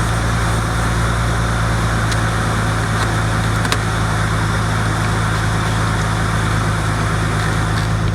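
Nissan 350Z running steadily at idle: a constant low hum under an even rushing noise.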